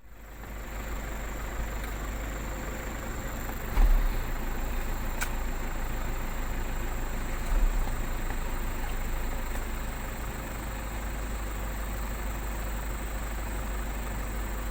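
A vehicle engine idling steadily, with two dull knocks about four and eight seconds in.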